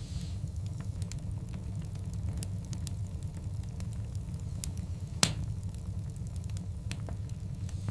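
Wood fire of large burning logs, with a steady low rumble of the flames and irregular sharp crackles and pops; one loud crack about five seconds in.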